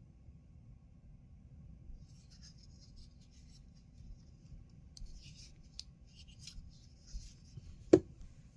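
Handling noise from a Spyderco C81 Paramilitary 2 folding knife with G10 handle scales: light rubbing and small ticks, then one sharp, loud snap of the blade's action near the end.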